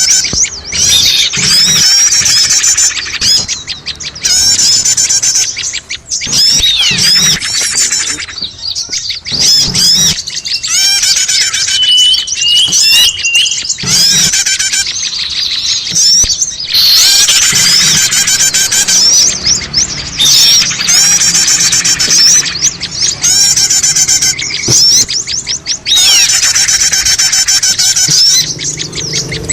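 Dense, overlapping chirping, trilling and quick whistled calls of several small songbirds mixed together, the kind of layered bird-lure (pikat) recording used to draw small birds in. The calls run in busy runs broken by a few short lulls.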